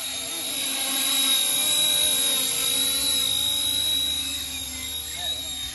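RC Era C189 Little Bird RC helicopter in flight, its motor and rotors giving a steady high whine that grows louder over the first second or two and then eases off.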